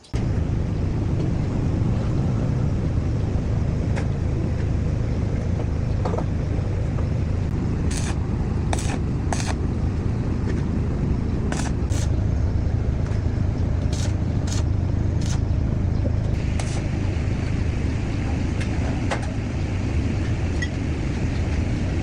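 Tractor engine running steadily at a low, even rumble, with a series of sharp metallic clicks or taps in the middle.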